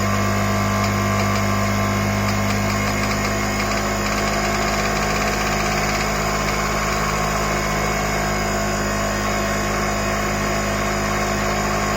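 Steady mechanical hum, engine-like, holding several constant tones without change in pitch or level.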